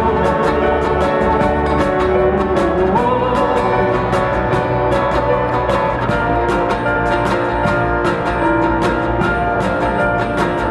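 Live acoustic band playing an instrumental passage between sung lines, with a steady beat and sustained melodic lines over it.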